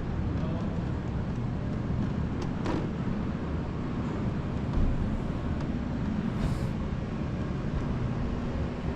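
Steady low rumble of background room noise, with a few light clicks, the clearest a little under three seconds in.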